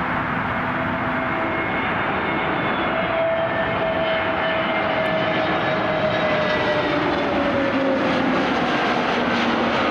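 Jet airliner passing close by: a steady engine rush with whining tones that slowly fall in pitch over the last few seconds.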